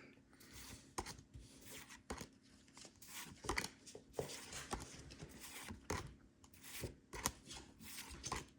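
Pokémon trading cards and foil booster pack wrappers being handled: soft rustling, small tearing sounds and scattered light clicks at an irregular pace.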